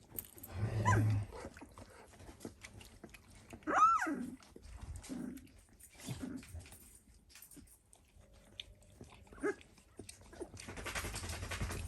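Newborn Dalmatian puppies, 16 days old, giving short high squeals three times, the loudest about four seconds in, with small shuffling clicks between and a soft rustling patch near the end.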